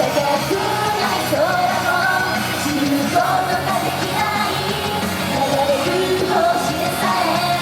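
Live idol-pop song: female voices singing over a loud, steady backing track.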